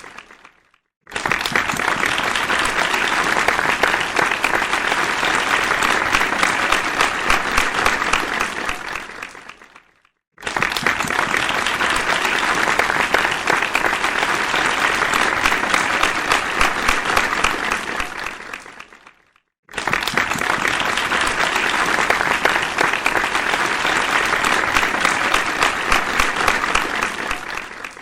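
Audience applause: dense clapping in three rounds, each starting suddenly, lasting about nine seconds and fading out, with a short silence between rounds.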